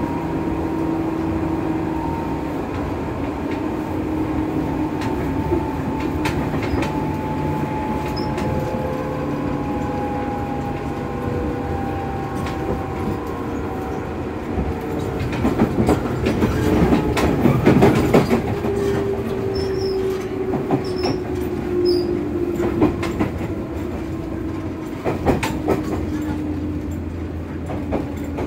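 JR East 205 series 600 electric train heard from inside the passenger car. The whine of its traction motors and gears slides steadily down in pitch as the train slows. The wheels clatter over rail joints and points, with a loud run of clacks about 15 to 19 seconds in.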